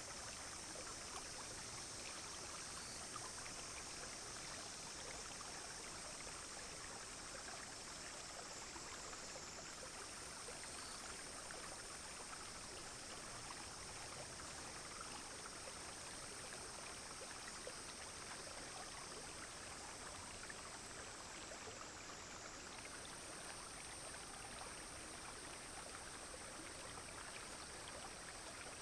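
A clear brook flowing steadily over stones, with a high, steady insect drone above it that twice glides a little lower and back.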